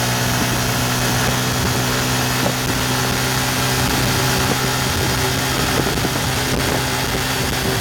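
Yamaha FZ150i's single-cylinder four-stroke engine running hard at high revs, near 8,000 rpm, with a steady pitch as the bike gains speed slowly at about 110 km/h. Wind rushes over the microphone.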